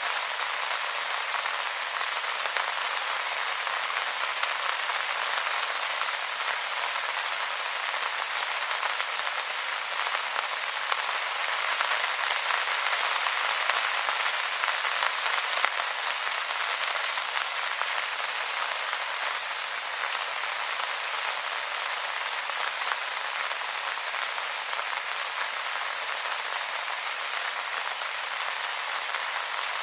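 Steady rain pattering on wet leaves, a dense even hiss of many small drops.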